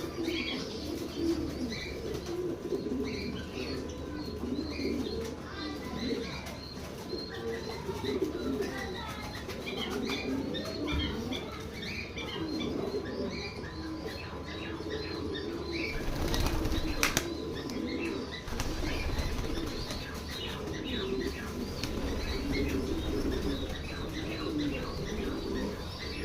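Pigeons flapping their wings and cooing, with higher chirps mixed in throughout. A sharp knock comes about 17 seconds in.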